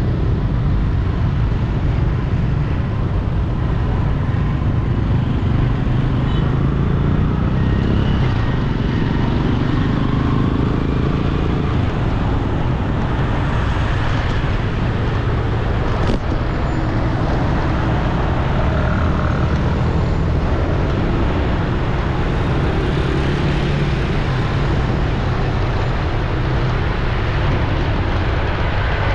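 Steady road traffic noise, vehicles running past with a constant low rumble.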